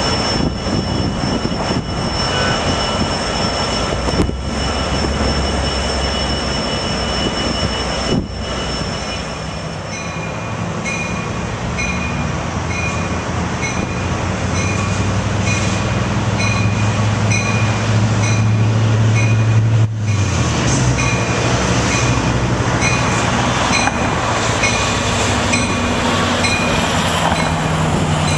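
Sounder commuter train led by an EMD F59PHI diesel locomotive rolling through the station: a continuous rail rumble over the locomotive's low diesel drone, with a steady high whine in the first third. From about ten seconds in, a short ringing tone repeats regularly, somewhat under twice a second. The low drone is strongest just before it drops away about twenty seconds in.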